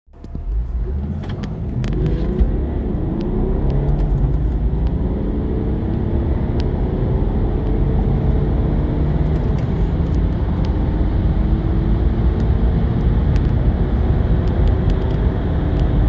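Diesel car engine under full-throttle acceleration from a standstill, with a heavy low rumble. The pitch rises through each gear and drops back at each upshift, several times over.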